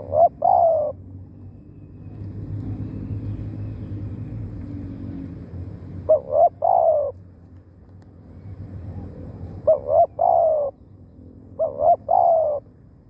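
Spotted dove cooing: four phrases a few seconds apart, each two short notes followed by a longer falling note.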